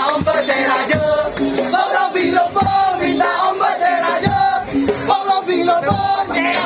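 Madurese tong-tong parade band playing: dense percussion strokes under a pitched melody line that bends from note to note.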